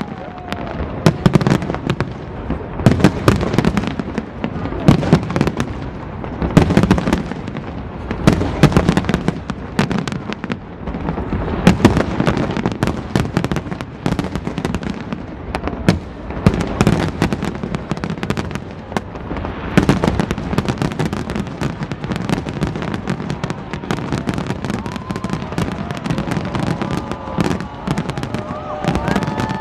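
Large aerial fireworks display: a continuous barrage of shell bursts, booming and crackling, with the loudest bangs coming about every two seconds.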